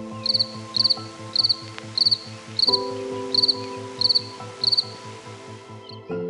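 Cricket chirping: nine short chirps, about two a second, that stop near the end, over a backing of sustained music chords.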